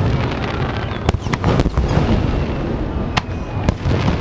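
Aerial fireworks shells bursting in rapid succession: a continuous low rumble of booms, with sharp cracks cutting through, several about a second in and two more around three seconds in.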